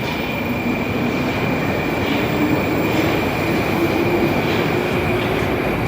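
Moscow Metro train running on the rails: a loud, steady rushing rumble with a thin, constant high whine, and a lower motor whine that slowly rises in pitch as the train picks up speed.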